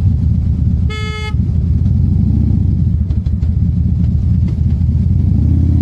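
Motorcycle engine running steadily as it rides in traffic, with one short vehicle horn beep about a second in.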